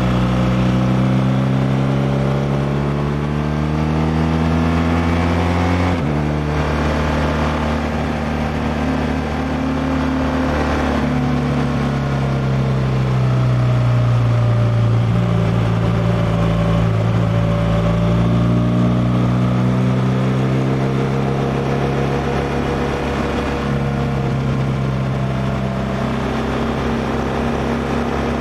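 BMW R1200R liquid-cooled boxer twin under way: the engine pitch rises steadily, drops abruptly about six seconds in as it shifts up a gear, then cruises with the revs easing and picking up again, with another step in pitch near the end.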